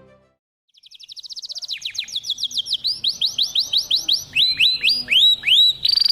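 Canary singing: starting about a second in, a fast run of repeated rising chirps that slows into spaced, sweeping notes, then breaks into a steady rapid high trill near the end.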